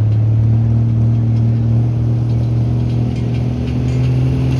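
Truck engine running loud and steady at high revs, its pitch creeping slightly higher toward the end, as in a truck making a pull.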